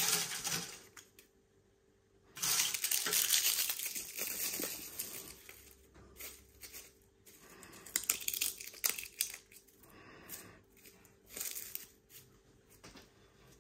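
Dry leaf litter crinkling and rustling as it is handled and scattered over the substrate, in several separate bursts, the longest lasting about two and a half seconds.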